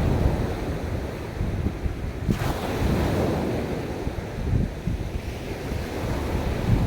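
Ocean waves breaking and washing on a beach, one wave surging in about two seconds in, with wind buffeting the microphone in low gusty rumbles.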